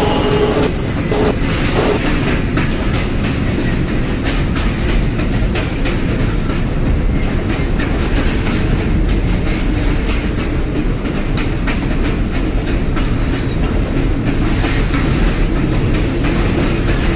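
New York City Subway L train running between stations, heard from inside the car: a steady rumble of wheels on rails with repeated clicking over the rail joints. A wheel squeal fades out within the first second.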